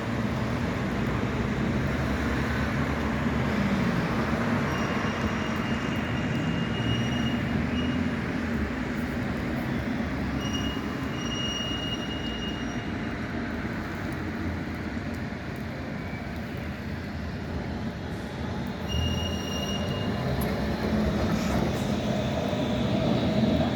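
Tram rolling through a tight turning loop, its steel wheels giving a thin, high squeal in the curve that comes and goes several times over the steady rumble of the running tram.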